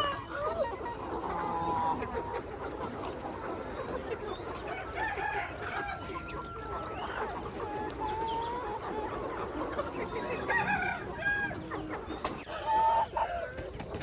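A flock of free-range chickens clucking and calling over one another, with roosters crowing. One louder call stands out near the end.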